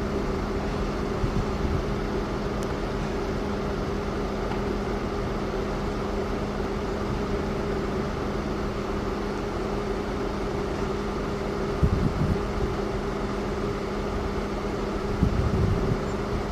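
Steady engine drone with a constant low hum, unchanging throughout, with a couple of faint knocks near the end.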